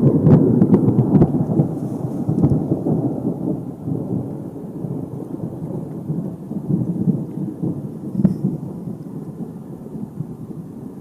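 Thunder from a powerful positive cloud-to-ground lightning strike: a long low rumble with sharp crackles in the first couple of seconds, rolling on and fading away.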